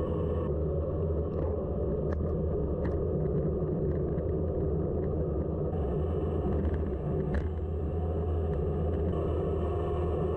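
Steady low wind rumble on the microphone with tyre noise from a bicycle descending at speed, and a few faint clicks from the bike.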